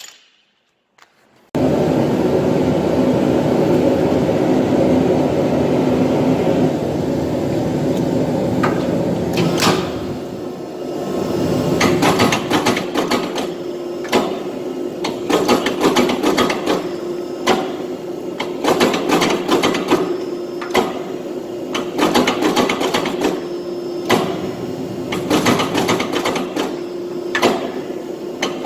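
A machine running steadily with a constant hum. From about ten seconds in it is joined by many irregular sharp knocks.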